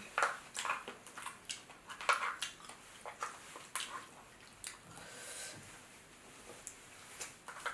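Close-miked chewing of a big mouthful of crab and rice, with irregular wet smacks and clicks of the mouth.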